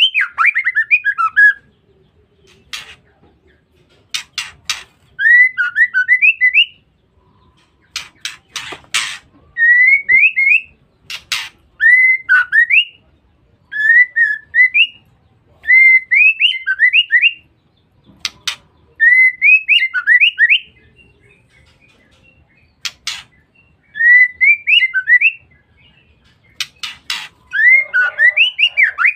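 Female white-rumped shama calling: short whistled phrases that rise and fall, repeated every couple of seconds, with sharp clicking notes between them.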